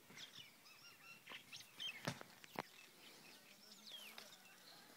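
Faint bird chirps and short gliding calls, one falling call about four seconds in, with two sharp clicks a little after two seconds in.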